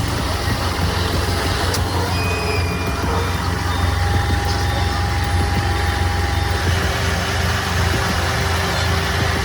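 Heavy truck's diesel engine running steadily, a deep continuous rumble, with faint whines over it.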